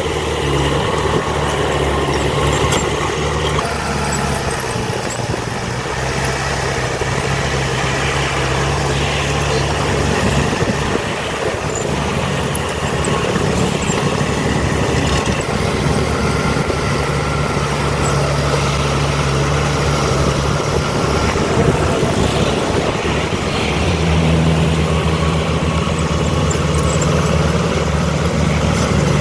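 Diesel engines of heavy earthmoving machinery running, with a low engine hum that changes in pitch and strength as the machines work: it fades for a few seconds around the middle and comes back higher near the end.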